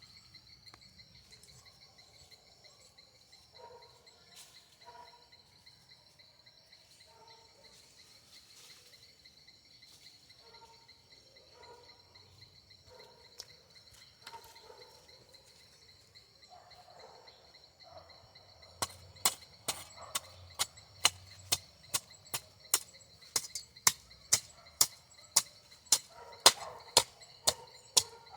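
Insects trilling steadily. About two-thirds of the way in, a hand tool starts striking sharply and repeatedly, about two blows a second, like chopping.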